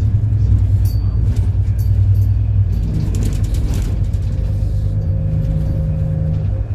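City bus engine running with a steady low rumble. A faint humming tone joins it about halfway through and holds until near the end.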